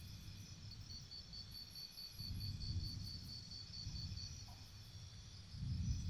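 Forest insects, crickets among them, shrilling steadily in high tones, with one insect's rapid pulsed chirping, about four pulses a second, running for a few seconds before it stops. A low rumble swells up about two seconds in and again near the end.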